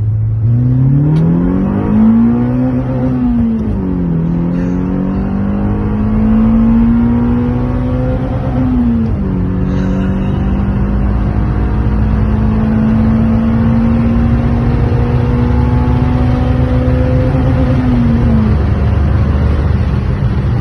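Citroën Saxo VTS 1.6-litre four-cylinder engine through its stock exhaust. It revs up from idle over the first couple of seconds, dips and climbs again, drops near nine seconds, then holds a steady higher note until near the end, when it eases back down.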